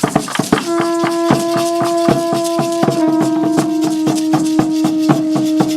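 Conch shell trumpet blown in two long steady blasts, the second slightly lower in pitch, over a fast even beat of rattles and drum strikes, opening a prayer to one of the four directions.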